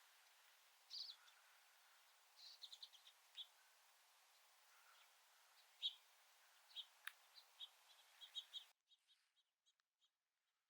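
Faint small-bird chirps and short calls, single notes and quick runs of three or four, over a soft background hiss; the sound drops almost to nothing near the end.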